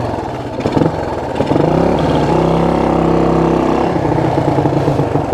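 1974 Honda XL175's single-cylinder four-stroke engine revving as the bike is ridden through snow. The engine climbs in pitch about a second and a half in, holds steady, then drops off about four seconds in.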